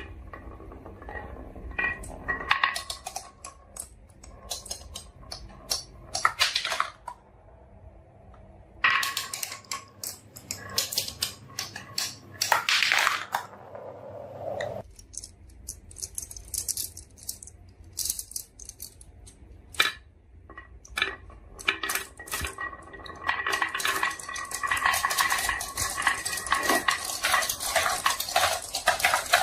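Marbles rolling and clattering down a marble run, with many sharp clicks and knocks as they hit the track and each other. The clicks come in clusters with short lulls, and a dense run of clicking near the end.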